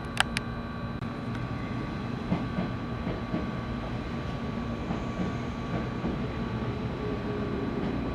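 JR West 223 series electric train heard from inside the motor car, running with a steady rumble and steady inverter tones as it nears a stop. Two sharp clicks come just after the start.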